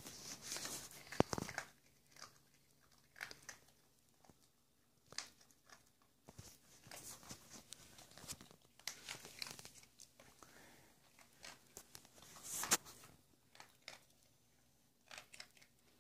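Dog crunching and chewing dry kibble in irregular bursts with short pauses, the loudest crunches about a second in and about three seconds before the end.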